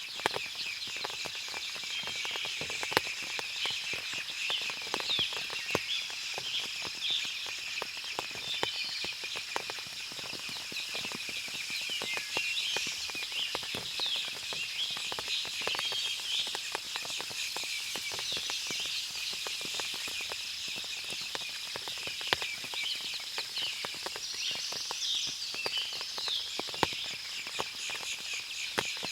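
Forest ambience after rain: many small birds chirping in a dense chorus over a steady high hiss, with frequent sharp ticks of water dripping from the trees.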